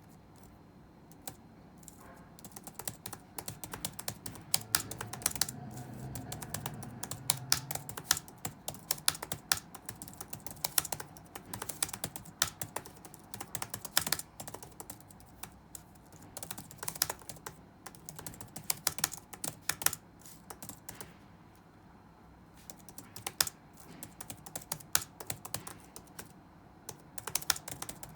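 Touch-typing on a computer keyboard: quick, uneven runs of key clicks that begin about two seconds in, pause briefly about three-quarters of the way through, then carry on.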